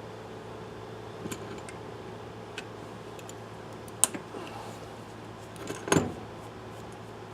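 Small metal parts and hand tools clicking and clinking while a carburetor is being taken apart, a few separate light taps and a louder knock about six seconds in, over a steady low hum.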